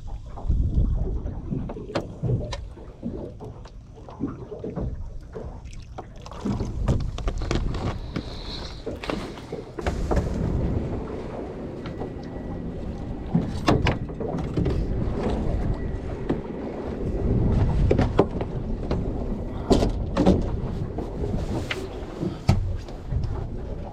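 Small fishing boat under way: a low rumble with water and wind noise, broken by many sharp knocks and bangs.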